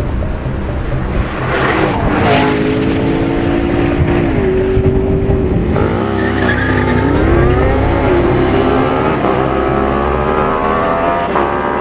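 Supercar engines revving hard, the note holding, then dropping at gear changes and climbing again, with a brief rush of noise about two seconds in.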